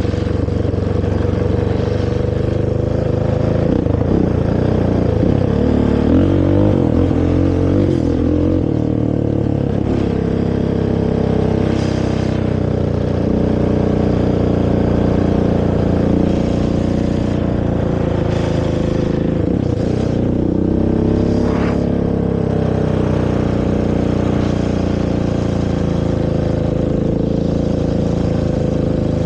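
Honda TRX450R quad's single-cylinder four-stroke engine on its stock exhaust, ridden with the throttle opening and closing, revving up and easing off several times.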